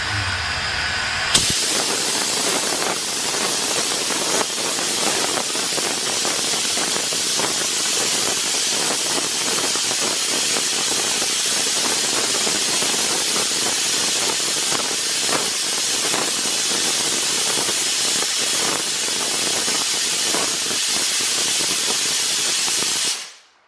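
Steam boiler's relief valve popping open about a second in at its 70 set pressure and blowing off steam in a loud, steady hiss. It cuts off quickly shortly before the end as the valve reseats.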